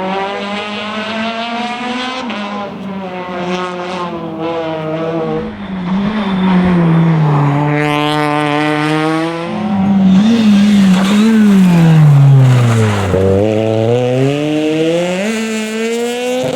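Rally car engine revving hard through its gears, the pitch climbing and dropping at each shift. It grows louder as the car comes closer and is loudest just past halfway. The revs fall steeply, then climb again as it accelerates away.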